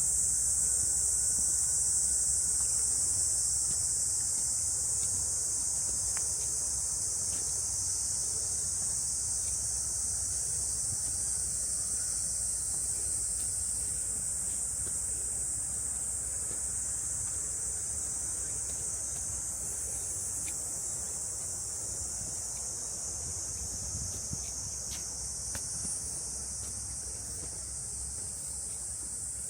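Cicadas in a summer forest chorus: a steady, high-pitched, unbroken drone that eases slightly toward the end.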